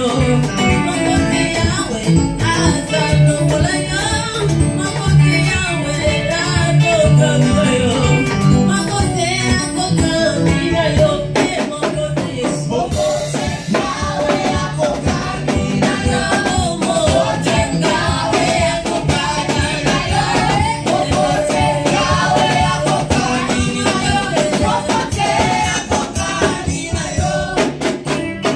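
Church choir singing a worship song with live band accompaniment over a steady percussion beat.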